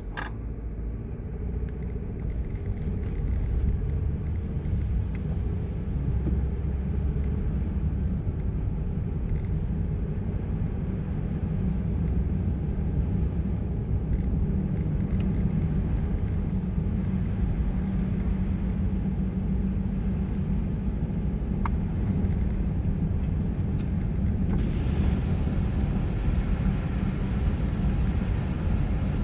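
Car driving on a snowy road: a steady low rumble of engine and tyres, growing louder over the first few seconds. A higher hiss joins about 25 seconds in.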